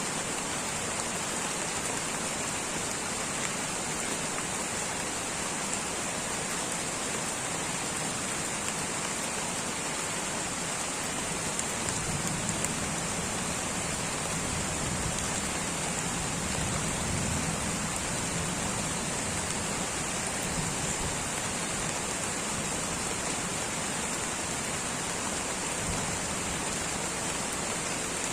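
Light rain falling steadily in a tropical rainforest: an even hiss of drops, with a brighter high band throughout. A soft low rumble swells for several seconds in the middle.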